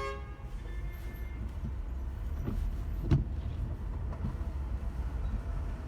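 Steady low rumble of a car and the surrounding traffic in slow rush-hour driving. A car horn fades out just at the start, and there is a single sharp knock about three seconds in.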